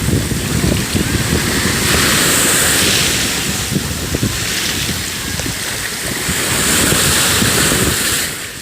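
Small Caspian Sea waves washing onto a beach, the surf swelling twice, with wind gusting on the microphone.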